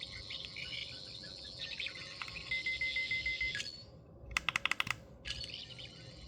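Red Character Options toy sonic screwdriver, a replica of the Fifteenth Doctor's, playing its electronic sound effects: a high warbling buzz that stops just before the middle, a quick run of about ten rapid pulses, then the warble again.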